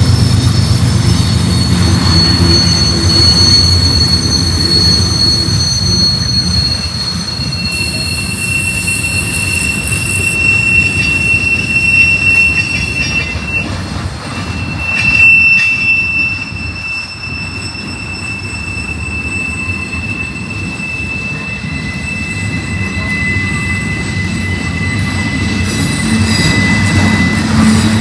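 Freight train cars rolling past, steel wheels squealing in several long, high-pitched tones over a steady low rumble.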